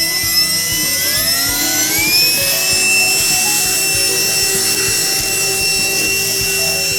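Cordless handheld vacuum cleaner switched on: its motor spins up with a whine that rises over the first two seconds or so, then runs at a steady high pitch with a rush of air.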